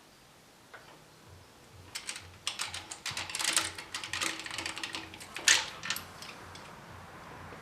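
Quick clicking and metallic rattling of hand tools working on the engine during a spark plug change, starting about two seconds in and easing off after about six seconds.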